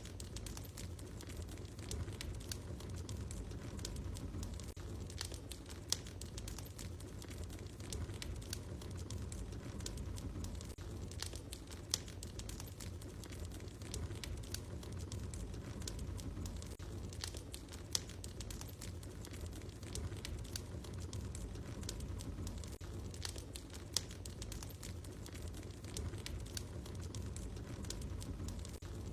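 Wood fire crackling in a fireplace: scattered small pops and snaps over a low rumble, with a sharper pop about every six seconds.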